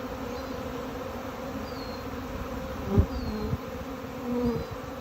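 A dense swarm of bees buzzing steadily around a man covered in them, with a short dull thump about three seconds in.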